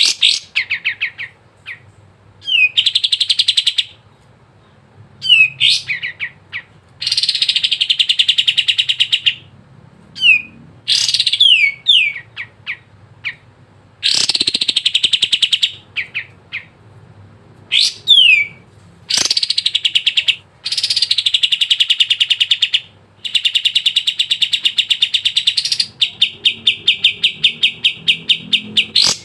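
Kapas tembak (cream-striped bulbul) singing loudly: phrases of very rapid high trills, each lasting one to three seconds, broken up by short, sharp notes that sweep downward.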